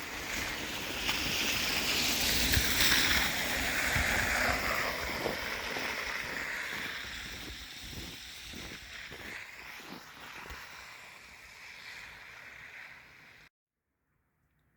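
A vehicle driving past, its tyres swishing on the road; the sound builds to a peak a couple of seconds in and slowly fades away. It cuts off abruptly near the end.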